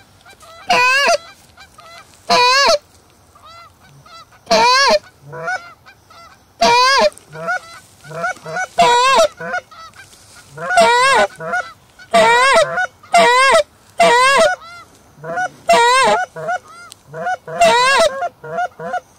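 Geese honking and clucking: loud, sharp goose calls that break upward and fall, one every second or two, with fainter honks in between.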